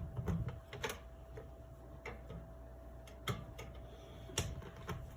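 Irregular light clicks and taps of small metal and plastic parts as a Daisy 105 Buck BB gun's barrel assembly is handled and worked into place, the sharpest about a second in, a little past three seconds and a little past four seconds.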